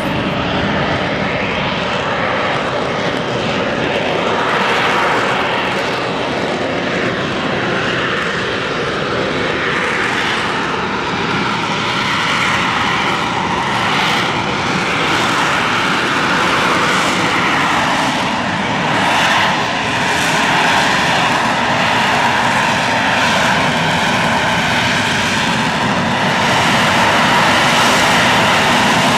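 AV-8B Harrier II Plus jet, its Rolls-Royce Pegasus vectored-thrust turbofan running loud and steady with a whine that slowly shifts in pitch, as in a slow-speed pass and hover.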